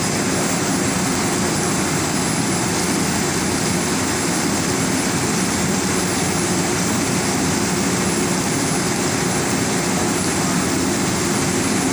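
Tofu and egg frying in oil for tahu telur at a street-food stove: a loud, steady noise with no break.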